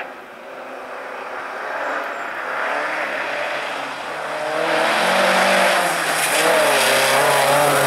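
Rally car's engine approaching on a snowy stage, growing steadily louder, its engine note wavering up and down with the throttle from about halfway through as it nears.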